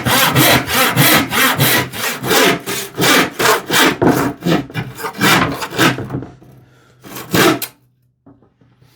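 Hand saw cutting through a Baltic birch plywood panel in quick, regular strokes, about three a second. The sawing stops about six seconds in, with one last stroke a second later.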